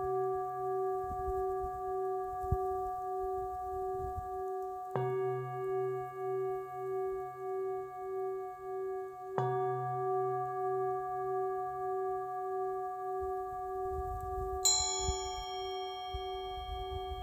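A singing bowl struck twice, about five and nine seconds in, each strike ringing on with a slow wavering hum. Near the end a higher-pitched bell or smaller bowl is struck once and rings over it.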